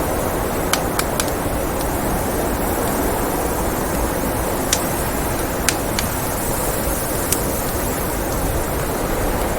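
Steady noise of blizzard wind blowing, with a wood fire in a fireplace crackling: a few sharp pops, three close together near the start and three more spread through the rest.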